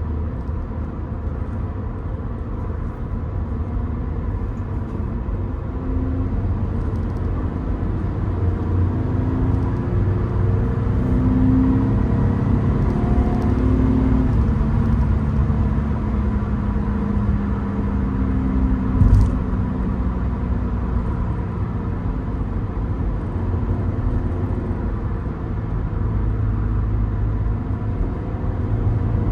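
Second-generation Subaru BRZ's 2.4-litre flat-four engine running under way over a steady road rumble, its note rising and falling in pitch through the middle of the stretch. A single sharp thump comes about two-thirds of the way through.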